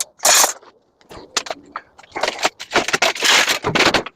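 Metal scrap being worked by hand: sharp clinks and clicks, with longer scraping rasps, the longest from about two seconds in to near the end.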